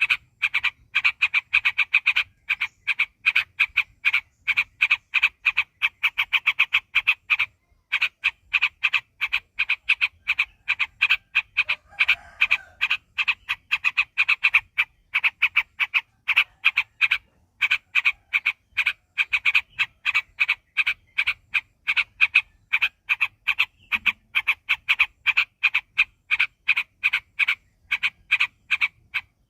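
Sooty-headed bulbul (trucuk) singing a long rapid run of short repeated notes, about four or five a second, with a couple of brief pauses.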